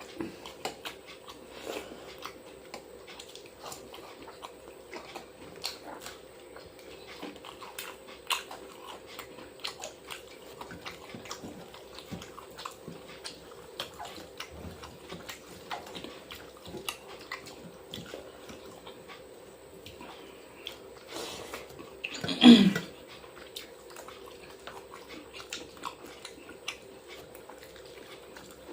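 Close-up eating sounds: chewing, biting and small wet mouth smacks and clicks in a steady stream, over a steady low hum. One short, louder sound about three-quarters of the way through.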